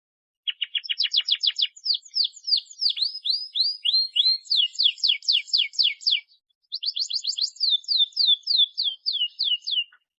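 Domestic canary singing fast trilled song: rapid runs of repeated down-slurred notes, changing note type every second or so, in two long phrases with a brief break about six seconds in.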